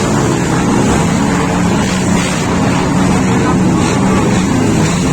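Motorcycle engine running at a steady pace, a continuous drone with a noisy rush over it.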